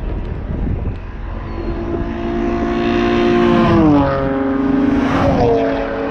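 Street-racing cars at full throttle approaching and passing close by. Their engine notes grow louder, then drop sharply in pitch as they go past, twice, about a second and a half apart.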